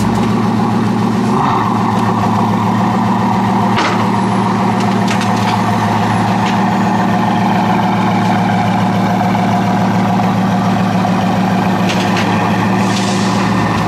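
Bugatti Veyron Super Sport's quad-turbocharged 8.0-litre W16 engine idling steadily, with a few faint clicks.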